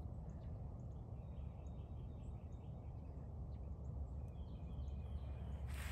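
Outdoor ambience: a steady low rumble with faint birds chirping in short runs, and a brief rustling noise near the end.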